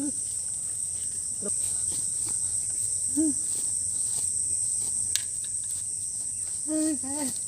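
Steady high-pitched chirring of crickets or similar insects, a jungle ambience. A few brief low calls that rise and fall in pitch break through it, once about three seconds in and twice near the end.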